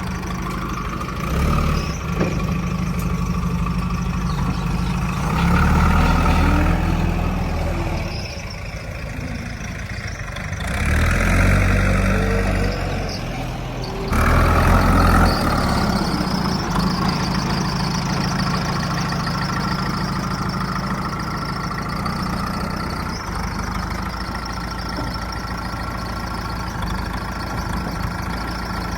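Heavy diesel engine of a working machine running at idle and revving up under load several times, about 1.5, 6, 11 and 14 seconds in, then settling back to a steady idle for the rest.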